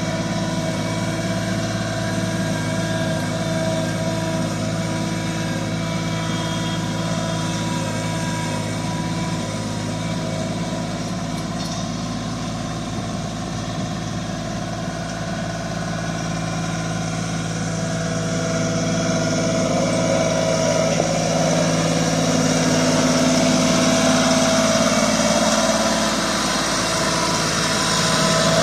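Tractor engine running steadily, growing louder and busier about two-thirds of the way through.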